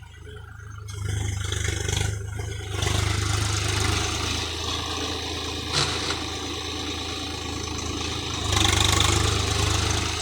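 Swaraj 735 FE tractor's three-cylinder diesel engine running steadily, getting louder about a second in and again near three seconds, and loudest for a couple of seconds near the end.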